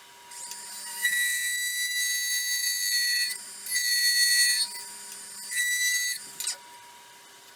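Turning gouge cutting a spinning epoxy-resin and pecan-shell bowl blank on a wood lathe, squealing in a high whistling tone in three cuts, the longest about two seconds; the blank is bouncing off the tool and vibrating. A faint steady hum from the running lathe lies under it.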